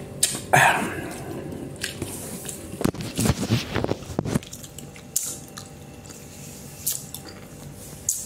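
Close-up mouth sounds of a man eating instant noodles: chewing and wet lip smacks, with scattered short clicks, heaviest a little past the middle.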